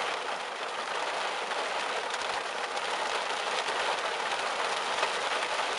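Heavy thunderstorm rain falling, a steady dense hiss of drops.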